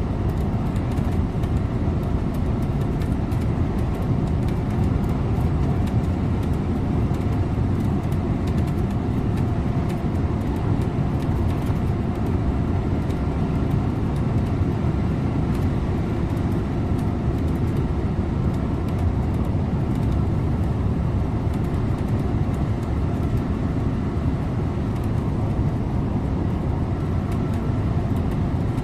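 Scania InterLink bus driving steadily at speed: a constant rumble of diesel engine and road noise with a faint steady whine, no gear changes or sudden events.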